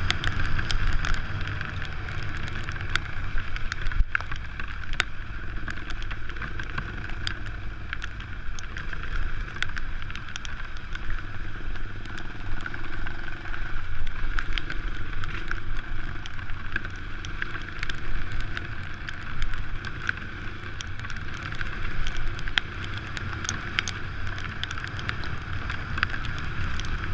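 Enduro motorcycle engine running steadily under way, with wind noise on the microphone and frequent short clicks and rattles.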